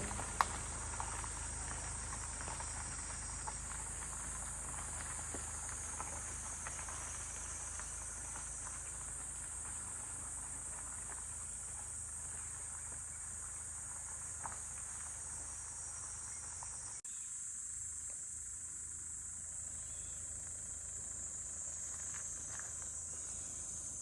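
Insects singing in a steady high-pitched chorus. A low background rumble under it stops abruptly about two-thirds of the way through.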